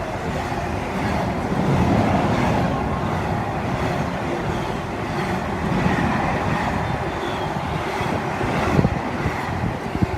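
Freight train hauled by a pair of class 90 electric locomotives passing on the main line, its wagons rumbling steadily over the rails, with a few sharp clacks near the end.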